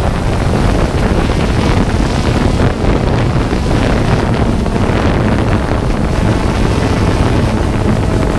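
Camera drone's propellers and motors running with a steady whir, mixed with wind buffeting the microphone.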